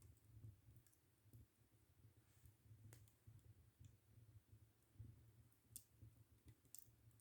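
Wood fire crackling faintly: scattered sharp pops and snaps, the clearest about three seconds in and twice near the end, over a faint low hum.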